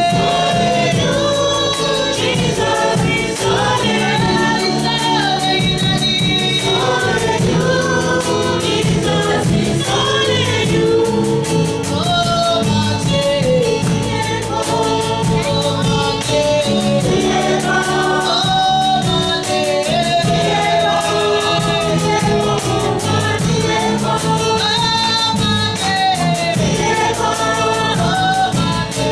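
A choir singing a gospel worship song over steady instrumental accompaniment with a regular beat.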